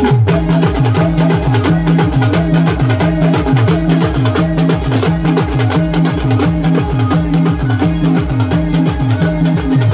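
Timli band music: fast, driving percussion with repeated low drum strokes that each fall in pitch, over held low tones.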